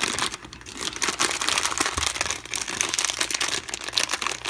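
Blind bag being crinkled and crumpled by hand as it is opened, a dense run of crackling rustles.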